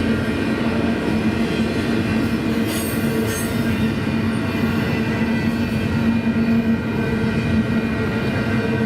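Double-stack intermodal freight cars rolling past at track side: a loud, steady rumble of steel wheels on rail with a steady hum. Brief high wheel squeals come about three seconds in.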